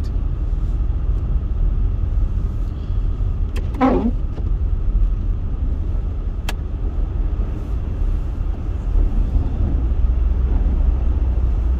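Steady low rumble of a car driving on a snow-covered road, heard from inside the cabin. About four seconds in, a short squeak falls quickly in pitch, and a single sharp click follows a couple of seconds later.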